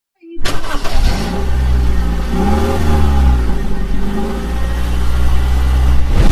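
A vehicle engine starting up about half a second in and running, its pitch rising and falling as it revs.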